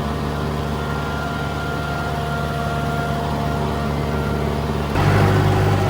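Tractor engine running steadily while mowing, with a faint thin whine above it; about five seconds in, the sound abruptly becomes louder and deeper.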